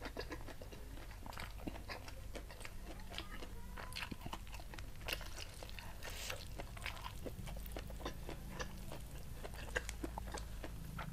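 Close-miked chewing and eating of rice with crispy fried anchovy sambal: a run of small, irregular crunches and wet mouth clicks.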